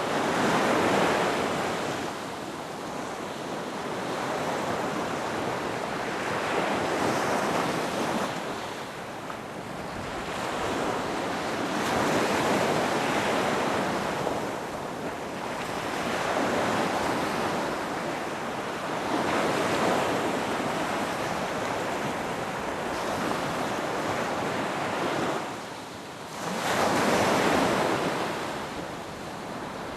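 Ocean waves breaking on a beach, each surge rising and falling away every few seconds, with a loud wave crashing in just after a brief lull near the end.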